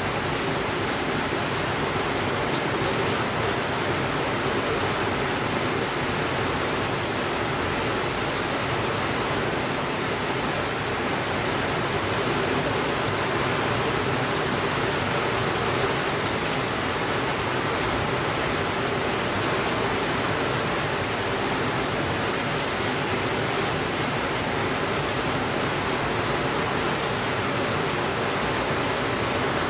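Steady rainfall, an even hiss with no thunder, with a few faint ticks here and there.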